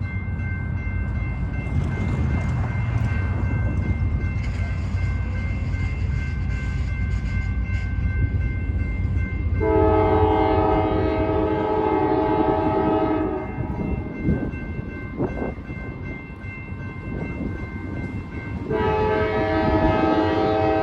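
Nathan K5LA five-chime air horn on a CSX GE AC44CW diesel locomotive sounding one chord for about four seconds, about ten seconds in, and again near the end, over the low rumble of the freight train.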